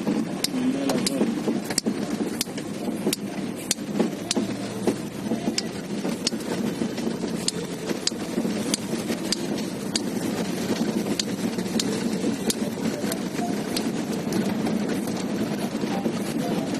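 A car driving: steady engine and road noise, with frequent sharp, irregular clicks and rattles over it.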